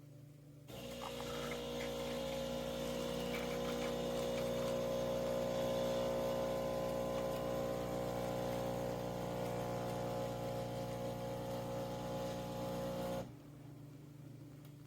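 De'Longhi Dinamica Plus espresso machine pumping water with a steady mechanical hum for about twelve seconds, starting about a second in and cutting off abruptly near the end.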